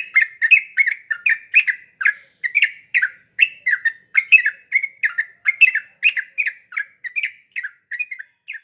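Yellow-vented bulbul (cucak trucuk) singing energetically: a rapid, continuous string of short chattering notes, about three to four a second.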